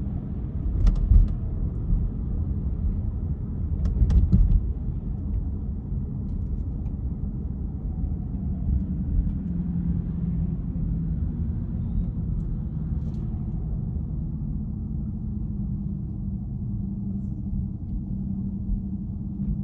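A car driving, heard from inside: a steady low rumble of engine and tyres on the road. Two short thumps, like the car going over bumps, come about a second in and again about four seconds in.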